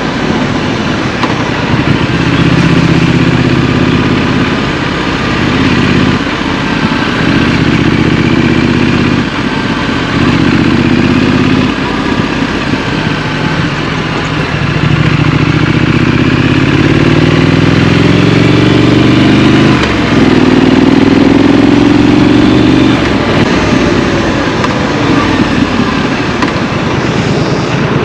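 Scrambler motorcycle engine under way in city traffic, heard from the rider's position: it revs up through the gears with short dips at each shift, makes one long climb in pitch, then drops back and runs lower as it eases off.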